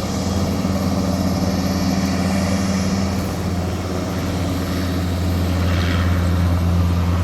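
Helicopter running: a steady engine and rotor drone with a constant low hum.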